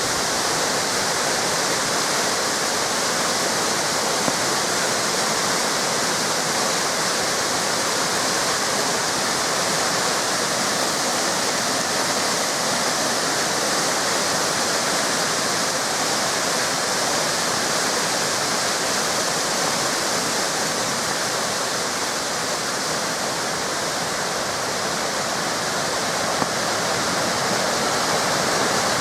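Small river waterfalls rushing and splashing in a steady, unbroken roar of falling water.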